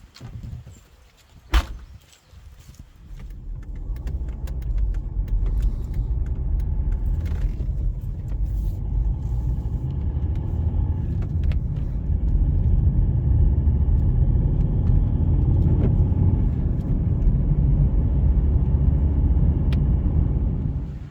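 A car on the move: a steady low rumble that builds over the first few seconds and then holds, after a single sharp clunk near the start.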